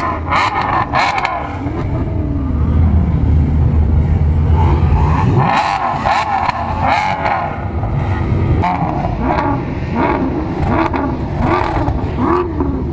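Car engine being revved in throttle blips, its pitch rising and falling repeatedly over a steady low rumble, with the quick blips coming more often near the end.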